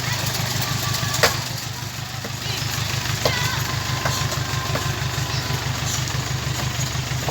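An engine idling steadily with a fast, even pulse. A few sharp knocks sound over it, the loudest about a second in and another about three seconds in.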